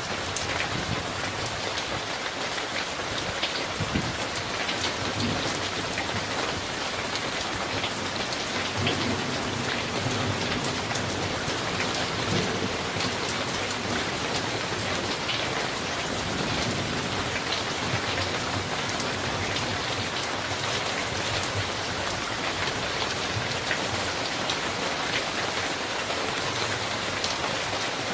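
Steady summer rain falling hard, a dense hiss with many individual drops tapping sharply on hard surfaces. A low rumble of distant thunder swells in the middle.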